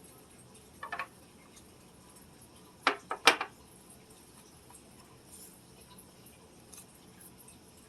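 Ceramic figurines clinking against each other or a hard surface as they are handled: a small clink about a second in, then two or three louder sharp clinks around three seconds in.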